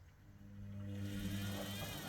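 Hoover washer-dryer's motor humming steadily and rising, with music fading in over it from about a second in.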